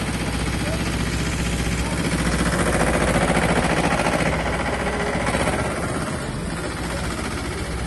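Tractor engine running steadily, swelling a little louder for a couple of seconds in the middle.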